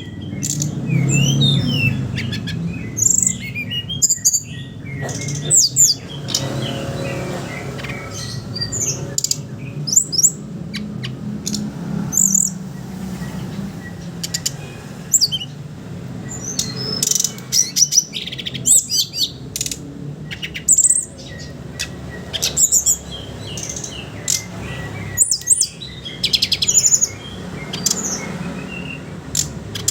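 A brown-chested jungle flycatcher (SRDC) singing: a busy string of short, high chirps and rapid twittering, broken by louder clear phrases. A steady low hum runs underneath.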